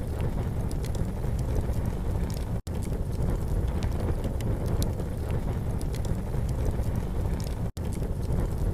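Campfire crackling, with scattered small sharp pops over a steady low rumble. The sound cuts out completely for an instant twice.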